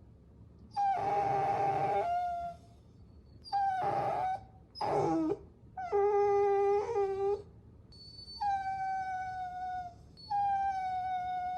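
Puppy whining: a series of about six high-pitched whines. The early ones are short and rough, one drops sharply in pitch, and the last two are longer and held steady.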